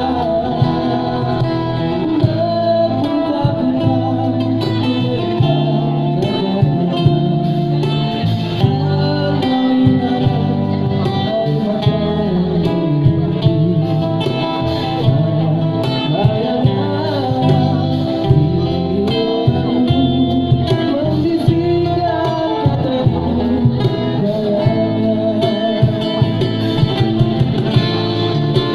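A male street busker singing with guitar accompaniment, a steady beat marked by regular sharp hits.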